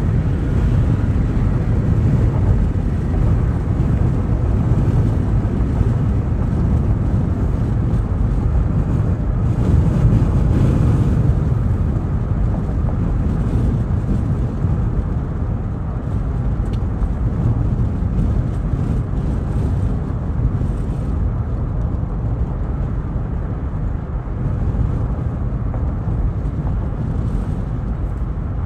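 A 2024 Cadillac Escalade driving along: a steady low rumble of road, tyre and engine noise, swelling slightly about ten seconds in.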